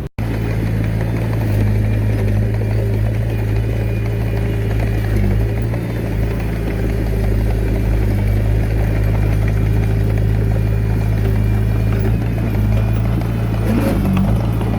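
Diesel engine of a Komatsu D21A mini bulldozer running steadily at constant speed.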